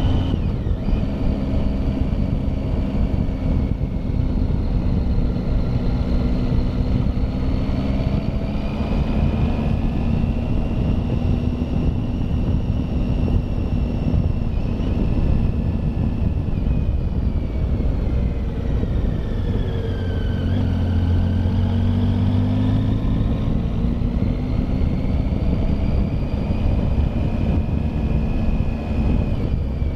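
Triumph Tiger motorcycle engine running under way, with heavy wind rush on the microphone. The engine note rises and falls with the throttle, dropping about eighteen seconds in and climbing again a few seconds later.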